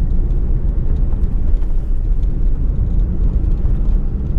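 Fiat Uno being driven along, a steady low rumble of engine and road noise.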